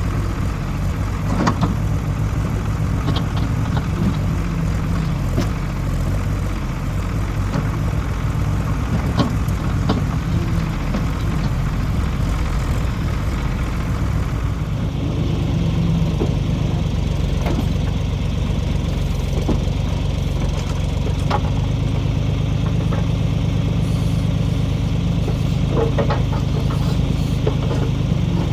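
1973 Ford 4500 industrial backhoe's diesel engine running steadily while the backhoe digs, its note changing about halfway through, with scattered sharp clanks and knocks.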